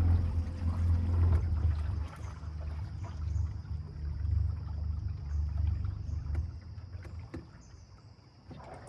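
Low rumble of a small fishing boat under way on the water, dying away about seven seconds in, over a steady faint high-pitched hum.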